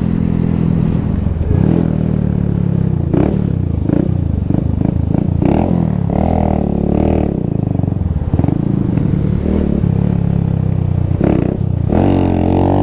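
125cc cruiser motorcycle engine running under way, its pitch rising and falling several times as the rider accelerates and eases off.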